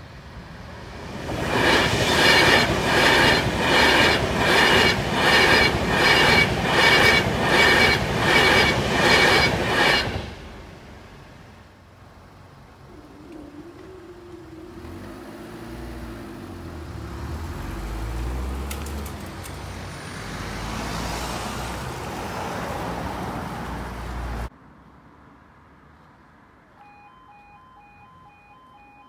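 An electric train passes over a level crossing with a loud run of regular clattering beats, about one a second, for some nine seconds, then stops sharply. A car then drives over the crossing, and near the end the crossing's two-tone warbling warning alarm starts.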